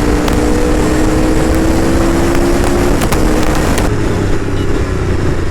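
Aprilia RSV4 RF's V4 engine running at speed under heavy wind rush, its note creeping slowly up. About three to four seconds in the engine note drops lower and the wind noise falls away as the bike slows.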